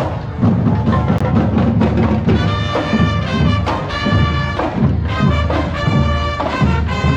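Marching band playing in the street, brass instruments holding chords over drums.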